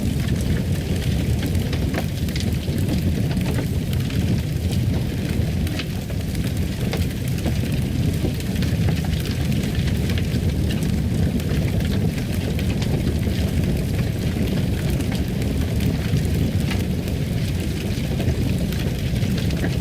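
Fireplace fire crackling, with many small irregular pops over a steady low rumble of flames.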